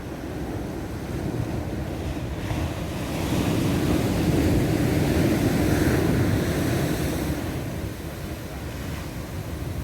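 Atlantic surf washing onto a rocky shore at the incoming tide, one surge building about three seconds in and easing off near the end, with wind buffeting the microphone.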